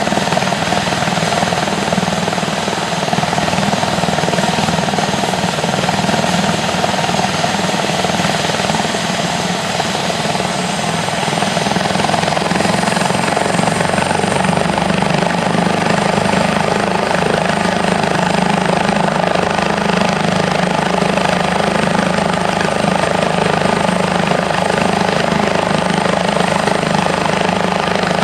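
Airbus H145 helicopter's twin turboshaft engines and rotor running steadily and loudly. A thin high turbine whine comes in about ten seconds in and holds.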